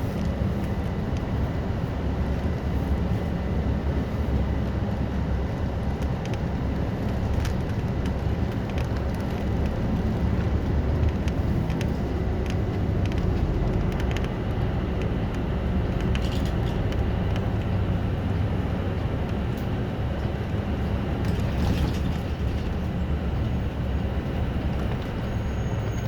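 City bus under way, heard from inside at the front: a steady low engine and road rumble, with a few brief light rattles.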